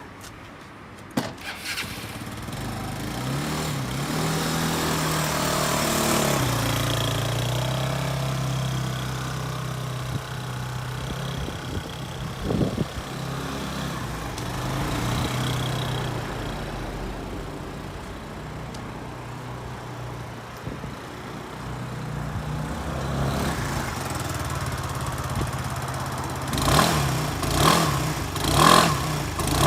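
Yamaha Cygnus-X FI scooter's single-cylinder four-stroke engine starting about a second in, running at a raised idle for a few seconds, then settling to a steady idle. Near the end it is revved in four short throttle blips.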